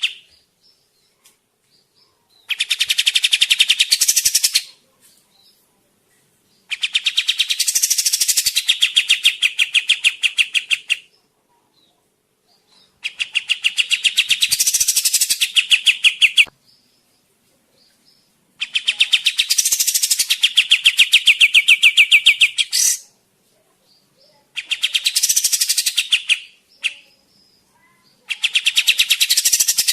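Kapas tembak bird singing in loud bursts of very rapid repeated notes, each burst lasting a few seconds, six times with short silent gaps between. This is the lure song used to call in wild birds of its kind.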